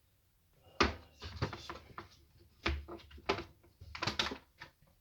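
Small metal wrenches clinking and clattering as they are picked through and handled: a series of sharp knocks and clicks, the first about a second in and a close cluster near the end.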